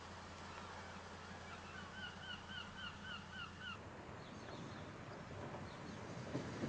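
A bird calling in a quick series of about eight short, repeated notes, roughly four a second, that stops abruptly. Underneath runs a steady low hum, and a rising noise builds near the end.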